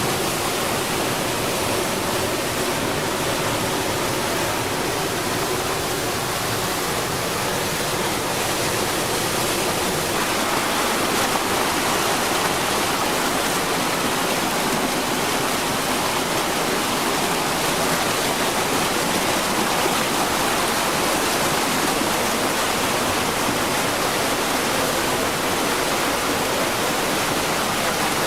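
Floodwater rushing steadily in a torrent, a constant unbroken noise that grows a little fuller about ten seconds in.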